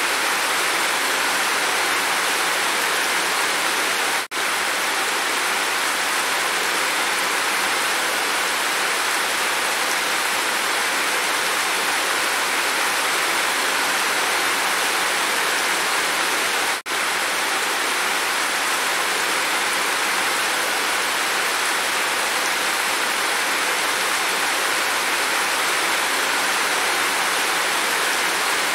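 Heavy rain falling steadily, with water streaming off a roof edge, a dense even hiss. Twice it cuts out for an instant.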